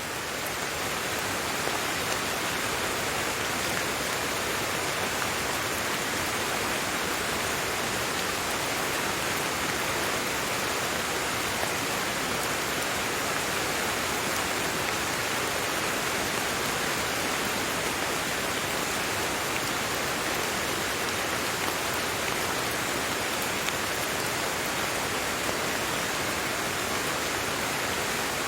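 Steady rain: an even hiss of falling water that neither builds nor breaks.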